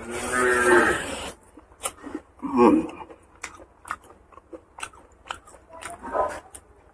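Close-up chewing and biting of pork curry and rice, with many short wet mouth clicks. Two short pitched voice-like sounds stand out, one in the first second and one about two and a half seconds in.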